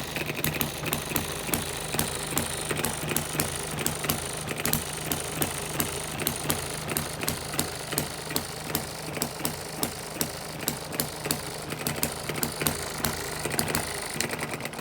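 Model hit and miss engine running: a steady hum with a fast, even beat of sharp clicks, about three a second.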